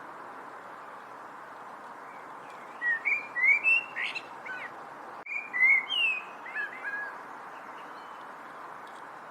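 A songbird singing two short phrases of quick, sliding whistled notes, about three seconds in and again just after five seconds, over a steady background noise.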